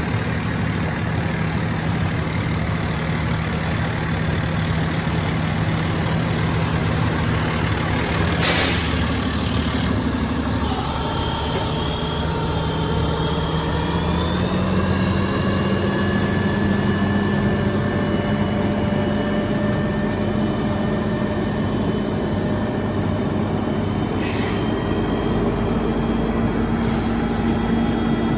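Cummins ISX diesel engine of a Peterbilt roll-off truck running steadily at idle, then rising in speed over a few seconds about halfway through and holding the higher speed. A short hiss of released air comes about eight seconds in, with a fainter one near the end.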